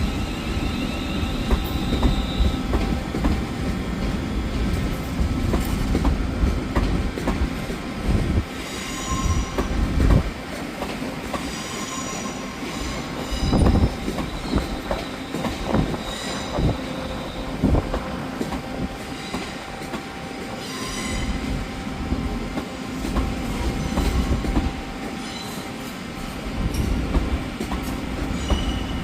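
A train running over the rails with a steady rumble and repeated clicks of wheels over rail joints. Short bursts of high wheel squeal come and go through the middle.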